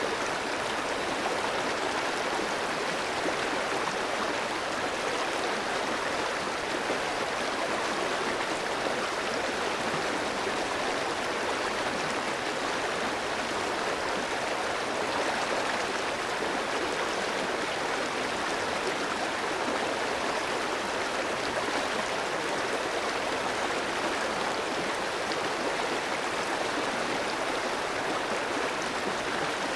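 Clear stream flowing over rocks: a steady, even rush of water.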